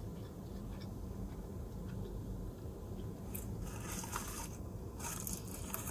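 Close-up chewing of a mouthful of sushi burrito, with crackly crunching about halfway through and again near the end, over a steady low hum inside the car.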